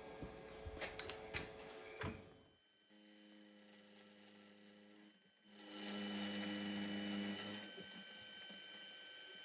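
Milling machine motor running with a steady hum, louder for a couple of seconds in the middle, after a few clicks and knocks of the workpiece and machine being handled.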